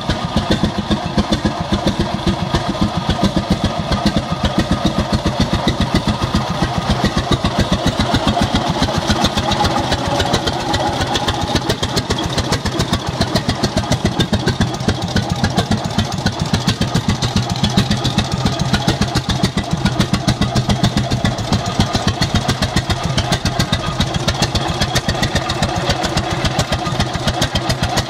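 1916 International Harvester Titan 10-20 tractor's twin-cylinder horizontal engine running steadily, a fast, even train of firing beats.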